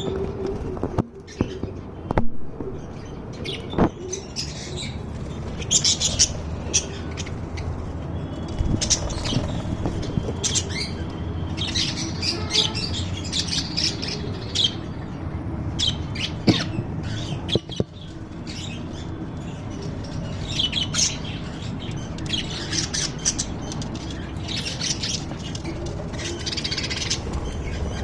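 Pet lovebirds and budgerigars chattering in their cage: many short, irregular squawks and chirps over a steady low hum, with a few sharp clicks.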